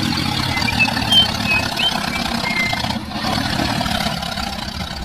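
A small engine running steadily with a fast, even rumble, with a few short high chirps over it in the first couple of seconds.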